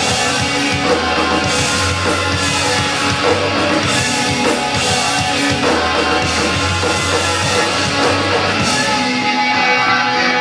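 A live rock band playing loud, with guitars and a drum kit. About nine seconds in the drums and cymbals drop out, leaving the guitar ringing on.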